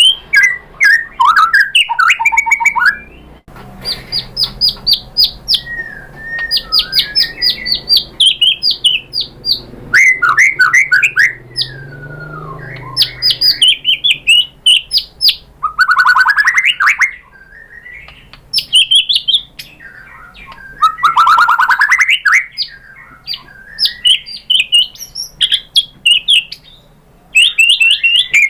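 White-rumped shama (murai batu) singing a loud, varied song: phrases of fast repeated notes and trills mixed with sweeping whistles, broken by short pauses.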